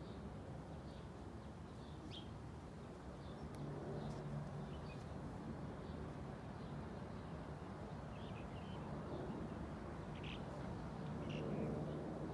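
Birds chirping now and then, short high calls scattered over a steady low outdoor background noise.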